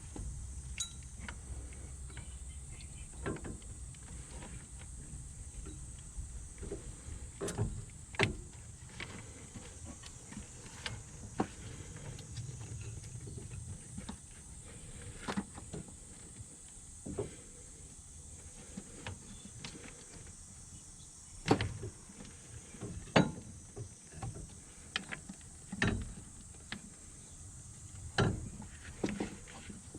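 Irregular knocks and clicks, a few dozen of them, the loudest coming in the second half, over a steady high hiss; a low hum is heard only in the first few seconds.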